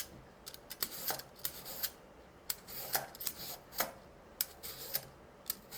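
A hand-held kitchen cutting gadget working through a carrot: a run of short, crisp strokes, two or three a second, at an uneven pace.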